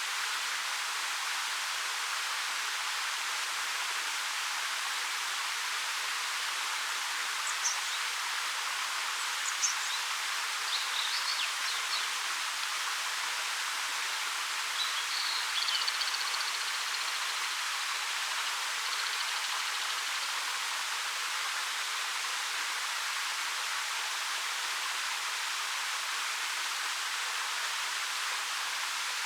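Ariake Falls, a waterfall with a 13 m drop over a rock face, falling steadily: an even hiss of water. A few brief bird chirps come over it between about a quarter and just past halfway through.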